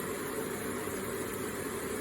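Water from an electric water feature falling and splashing in a steady, unbroken stream.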